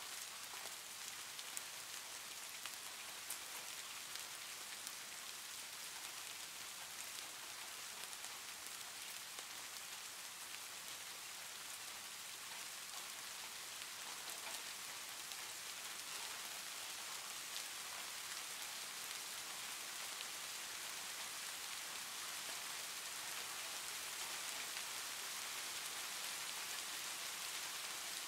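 Soft rain ambience recording: a steady hiss of rainfall with faint scattered drop ticks.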